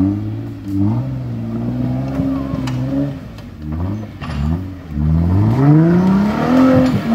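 Jeep Wrangler's engine revving under load as it crawls up a steep, rocky dirt climb. The revs rise about a second in and hold, ease off around the middle, then climb hard over the last couple of seconds before dropping away near the end.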